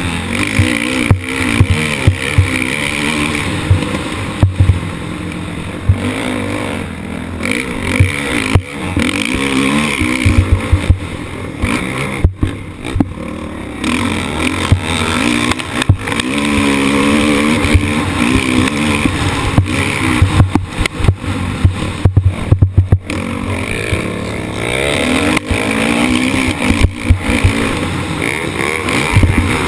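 Motocross motorcycle engine revving up and down repeatedly as it is ridden hard, heard from onboard, with many sharp knocks and jolts mixed in.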